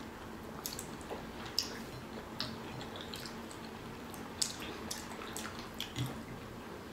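Wet chewing of juicy pear pieces doused in lemon juice: fairly faint, irregular little smacks and clicks of mouths and sticky fingers on the soaked fruit.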